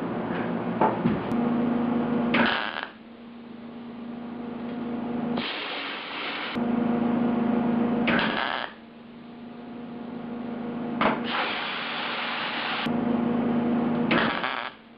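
Tack welding a sheet-metal patch panel into a car door: about five short bursts of welding-arc crackle, with a steady electrical hum between them.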